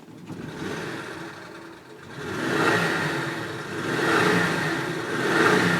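1965 Ford F100 pickup's engine running, at first low and even, then revved up three times in quick swells.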